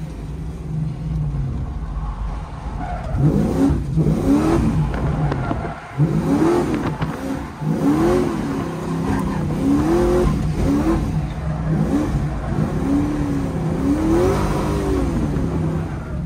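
Drift car's engine revving up and falling back again and again as it is driven hard around the track, the pitch climbing and dropping in quick waves every second or two.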